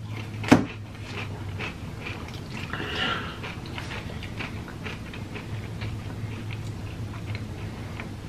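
Chewing and small wet mouth sounds of someone eating, over a steady low hum. There is a sharp click about half a second in.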